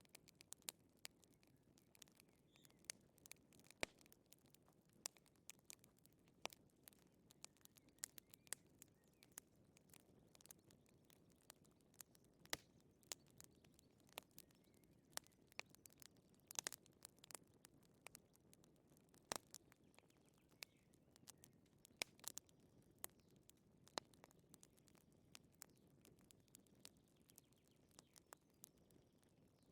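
Faint wood fire crackling: irregular, sharp little pops and snaps over a low hiss.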